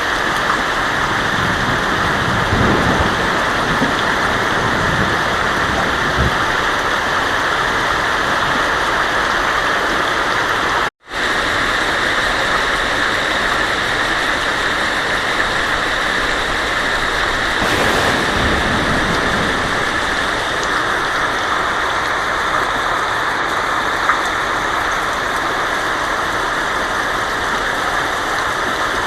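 Heavy rain drumming steadily on a tin roof, with two low rumbles of thunder, one a few seconds in and one past the middle. The sound cuts out for a split second about 11 seconds in.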